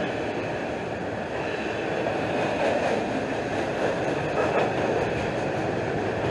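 Freight train of autorack cars and boxcars rolling past: a steady noise of steel wheels running on the rails, a little louder midway.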